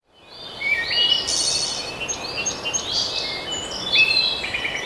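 Several birds singing at once, overlapping whistled and chirping phrases, fading in from silence at the start.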